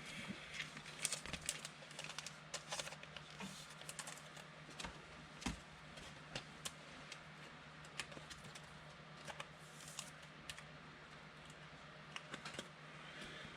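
Quiet, irregular light clicks and taps over a faint steady hum, like typing or small handling noises.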